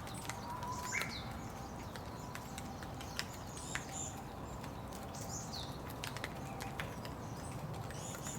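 Steady rain with irregular drops pattering, and a few short high bird chirps and calls now and then.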